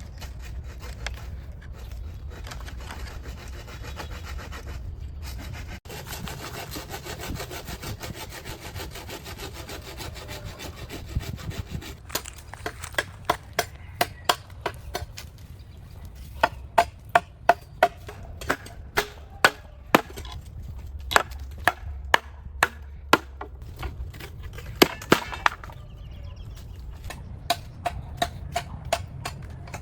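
A hand saw cutting through wood with a steady rasp, followed by a long run of sharp strikes on wood, one to two a second, each with a short ring.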